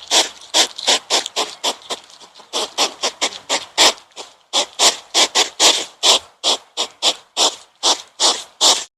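An animal making a fast run of short, harsh, noisy sounds, about three a second, that stops abruptly near the end.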